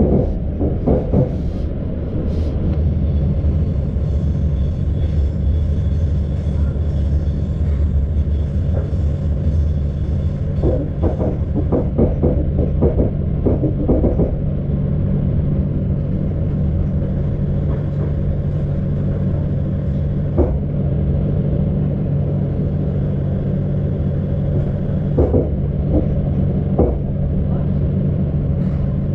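Passenger train coach heard from inside, running at speed: a steady low rumble with clusters of wheel clicks over the rail joints.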